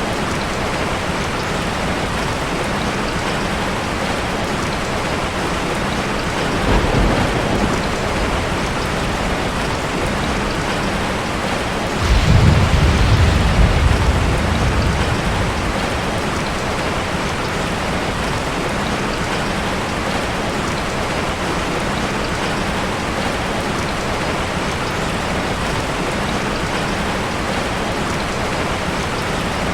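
Steady rain with two low rumbles of thunder: a short one about seven seconds in, and a longer, louder one starting at about twelve seconds that fades over a few seconds.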